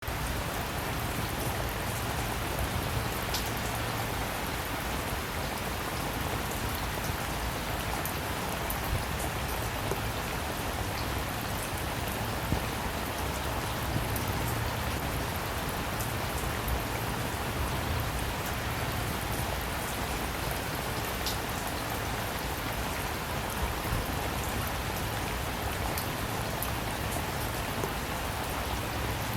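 Steady rain falling and pattering on a surface, with scattered individual drops ticking and a low rumble underneath.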